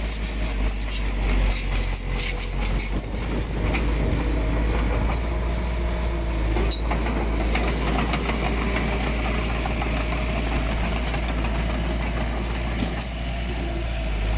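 Diesel engine of earthmoving machinery running steadily with a deep rumble, with metallic clanks and rattles through the first few seconds.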